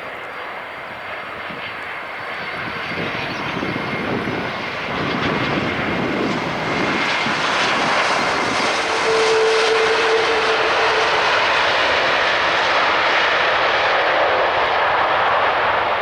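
An airliner's engines passing close by. The noise grows steadily louder over the first half and then holds at its peak, with a short steady hum near the middle.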